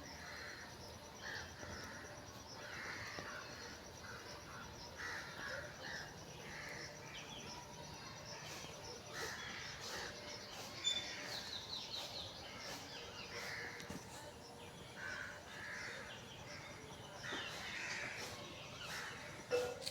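Birds calling repeatedly outdoors, short calls coming about every second, with a brief rapid run of higher chirps about eleven seconds in.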